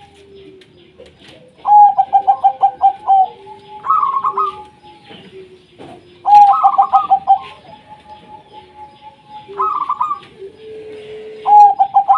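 Zebra doves (perkutut) calling: about five bursts of quick, staccato cooing notes, each about a second long, alternating between a lower-pitched and a higher-pitched phrase. A fainter, lower drawn-out tone runs between the phrases.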